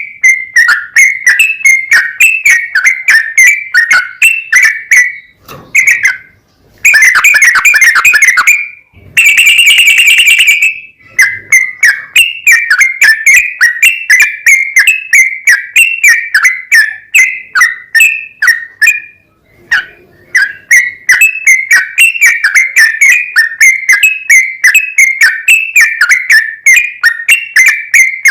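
Yellow-vented bulbul (trucukan) singing a long, fast run of repeated loud chirps, about three to four a second. It breaks into two dense trills about seven and nine seconds in, and pauses briefly twice.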